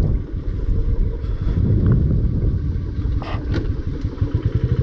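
Motorcycle engine idling with an even low pulse, with a short rattle about three seconds in.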